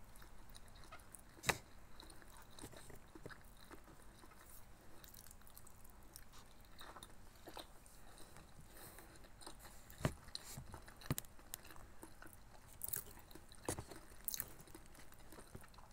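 Mouth sounds of someone biting into and chewing a soft steamed siomai dumpling, faint and close, with scattered small clicks. A sharper click comes about a second and a half in, and a few more follow near the end.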